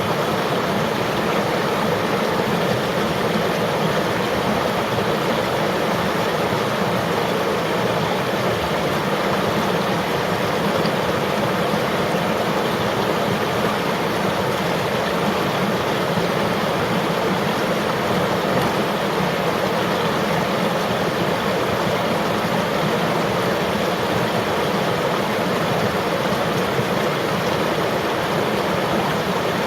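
Flowing river water: a steady, unbroken rush, fullest in the low and middle range.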